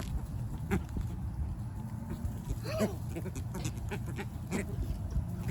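A short bleat-like bird call about three seconds in, from the birds being fed, over a steady low rumble and scattered light clicks.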